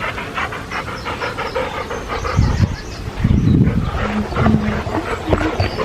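A dog panting quickly and steadily, with a few low thumps and rumbles about halfway through.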